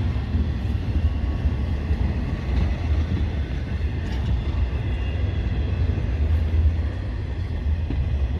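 Long freight train rolling slowly through a road crossing: a steady low rumble of the cars passing, with faint high wheel tones over it.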